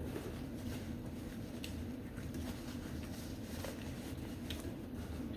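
Steady low room hum with a few faint, soft clicks and handling sounds, the quiet moments of someone eating a seafood boil.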